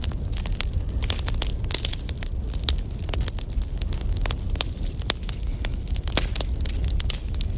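Burning firewood crackling and popping: a dense, irregular run of sharp pops over a low steady rumble.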